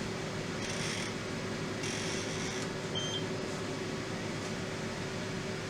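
Steady electrical hum with two short hisses of aerosol smoke-detector test spray, about a second and two seconds in, and a single short high beep about three seconds in.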